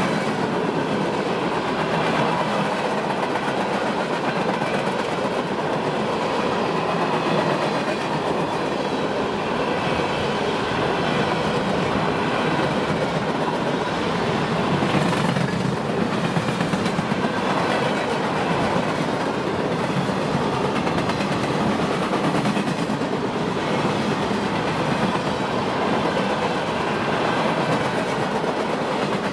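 A train's cars rolling past on the track, a steady loud noise of wheels on rail throughout.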